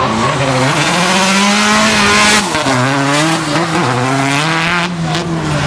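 Drift car engine held at high revs with its tyres squealing in a slide. The engine note drops sharply about halfway through, then climbs and wavers again as the slide continues.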